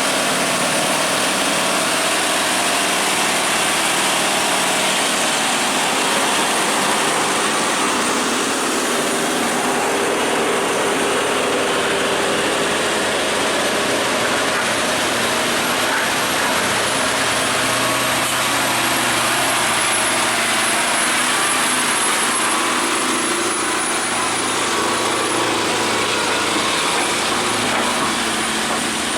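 Truck engines and road noise running steadily, with no sharp events, and a faint thin high whine that drifts slightly in pitch from the middle on.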